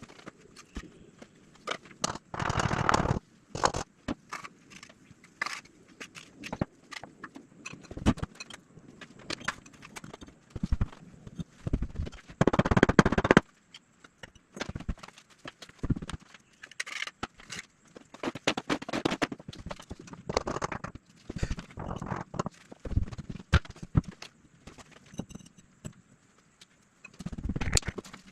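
Hands-on building work on a fireplace top: irregular knocks, taps and clicks of tools and materials, with a few longer scraping bursts, the loudest about twelve seconds in.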